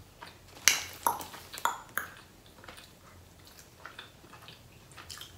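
Close-up eating sounds: four sharp mouth smacks and clicks in the first two seconds, then quieter chewing clicks.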